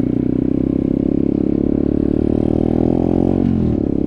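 Motorcycle engine pulling under throttle on a dirt trail, its pitch rising steadily for about three seconds, then dropping sharply as the revs fall off.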